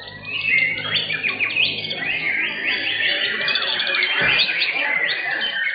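White-rumped shamas singing, a dense, continuous run of quick overlapping whistles, sweeps and chirps.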